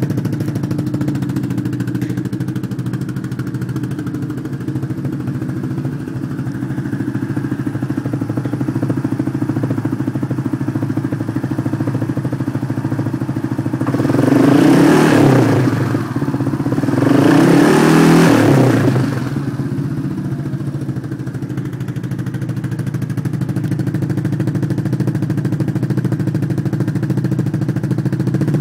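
Yamaha Rhino 700's single-cylinder engine idling through a dual Muzzy exhaust, tuned with a stage 1 Hotcam and MSD ignition. It is revved twice, about halfway through and again a few seconds later, each time rising and dropping back to idle.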